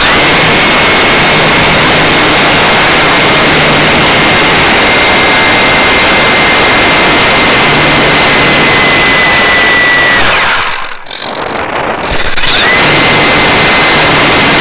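Radio-controlled air truck's motor heard from a camera on its hood: a high, steady whine over heavy wind rush. About ten seconds in it throttles down and goes much quieter for about two seconds, then spools back up, easing off again near the end.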